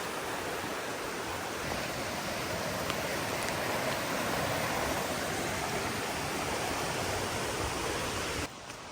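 Flowing water of a stream rushing steadily. It cuts off suddenly near the end.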